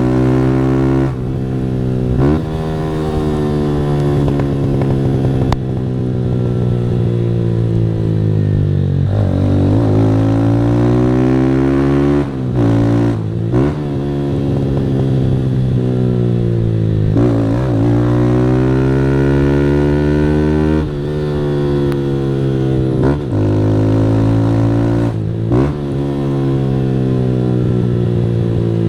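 Single-cylinder 160 cc motorcycle engine breathing through an aftermarket Fortuna Trioval exhaust, ridden hard through the gears: the engine pitch climbs steadily under load, then drops sharply at each gear change, several times over.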